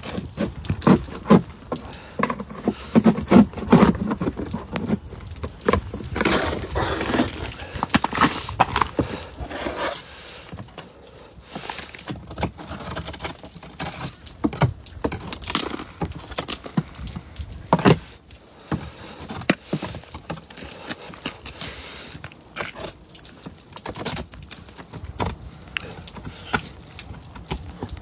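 A metal spike chipping and breaking thick ice off a car, with irregular sharp strikes and crackling of ice pieces, busiest in the first ten seconds and sparser after.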